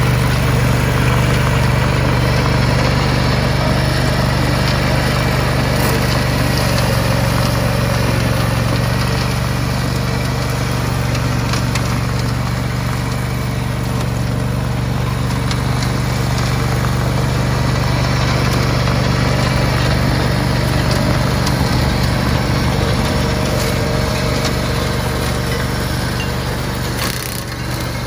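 Tractor engine running steadily while working a flail mower, a constant low hum with a brief dip in level near the end.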